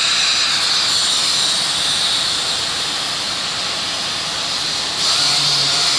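Machine sander dry-sanding hardened body filler, a steady loud hiss of abrasive on filler. About five seconds in it gets louder and a low, pitched hum comes in.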